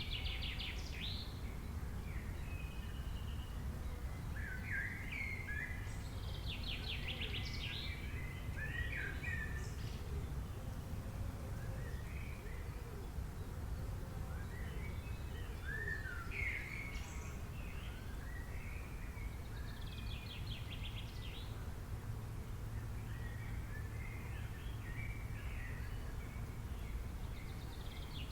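Wild birds singing: scattered short chirps and quick trilled phrases every few seconds, over a steady low background rumble.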